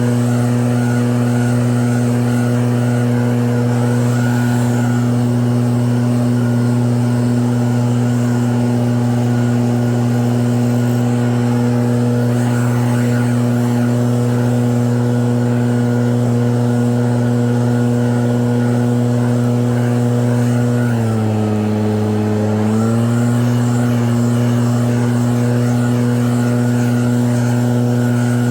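Snowblower engine running steadily at a constant speed; about three-quarters of the way in its pitch drops for a couple of seconds, then comes back up.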